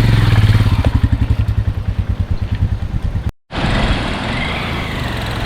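Single-cylinder motorcycle engine thumping at low revs, its beat slowing. After an abrupt cut about three seconds in, it gives way to a steady rushing noise.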